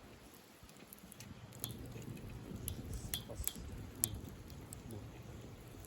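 Campfire crackling, with sharp pops at irregular intervals.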